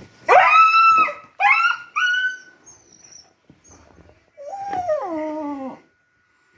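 Beagle whining during whelping: two loud, high-pitched whines in the first two seconds, then a lower, longer cry that falls in pitch.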